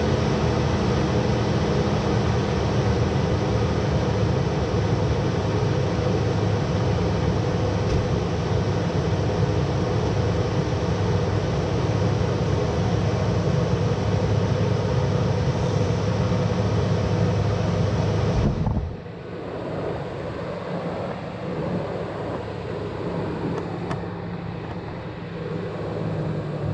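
2000 Toyota 4Runner's engine idling steadily just after being started. About nineteen seconds in the sound drops sharply in level, and the idle carries on more quietly.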